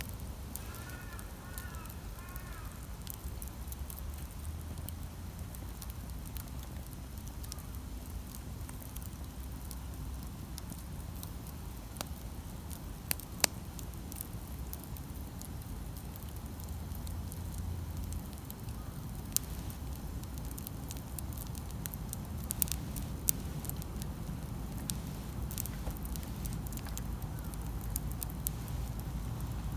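Campfire burning, wood crackling with occasional sharp pops over a steady low rumble of the flames. The pops are sharpest around the middle and in a cluster a few seconds later.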